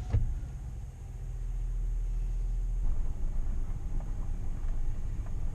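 Car engine running low and steady, a low rumble that swells a little after the first second, with a brief thump just after the start.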